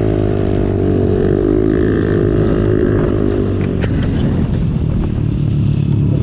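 Motorcycle engine running under way, its pitch rising and falling gently, with a few short clicks between about three and four seconds in.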